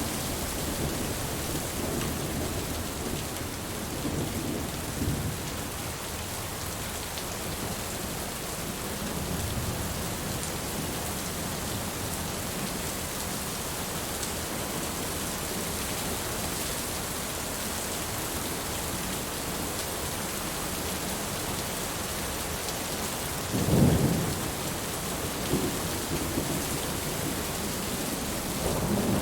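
Steady rain falling, with low rolls of thunder early on and a louder, sharper peal of thunder near the end.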